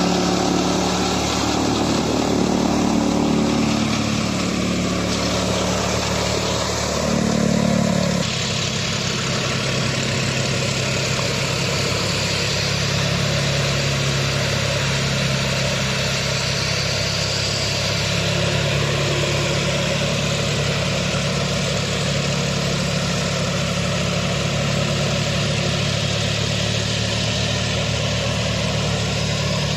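John Deere 5305 tractor's three-cylinder diesel engine running steadily at idle, with a slight drop in level about eight seconds in.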